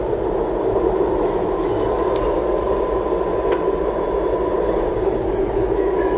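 Steady road and engine noise of a Toyota Tank driving, heard inside the cabin, with a faint steady whine running through it.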